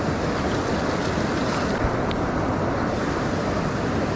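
Steady rushing of river current, with wind buffeting the microphone.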